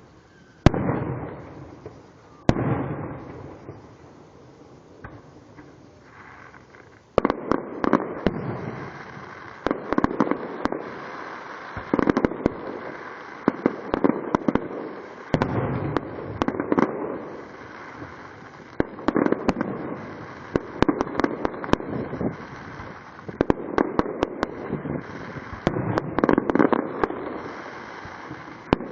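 Fireworks going off: two loud booms, each fading in a rumble, in the first few seconds. Then, after a short lull, a dense barrage of bangs and rapid sharp pops begins about seven seconds in and carries on.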